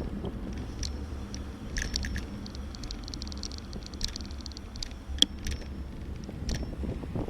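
Riding a bicycle: a low wind rumble on the microphone, with scattered clicks and rattles from the bike and a short run of fast ticking about two seconds in.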